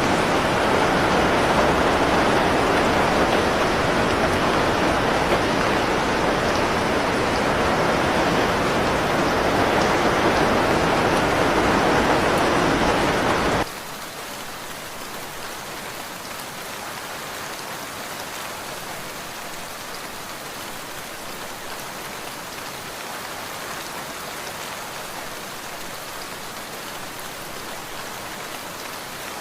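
Loud, steady rushing of water that cuts off abruptly about halfway through. It gives way to a quieter, even hiss of falling rain.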